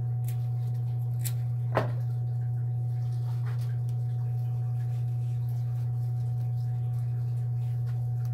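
A steady low hum with a faint, thin higher whine above it, unchanging throughout. A few light clicks sound over it, the sharpest about two seconds in.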